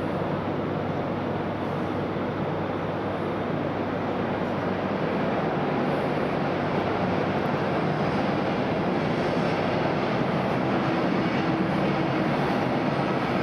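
E1 series Max double-decker Shinkansen train at the platform: a steady rumbling hum that swells slightly about six seconds in.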